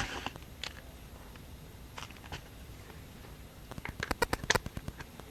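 Sticky Wonder Dough being pried and pulled out of its plastic container by hand: small scattered clicks and crackles, a few about two seconds in and a quick run of them near four seconds.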